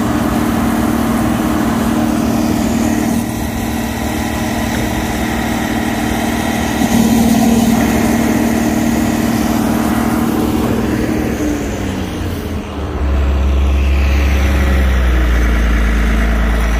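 Tractor engine running steadily at raised revs, then winding down about twelve seconds in and settling to a low idle.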